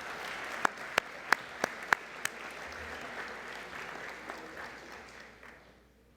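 An audience applauding in a large hall, with six sharp, louder cracks at about three a second standing out near the start. The applause fades out near the end.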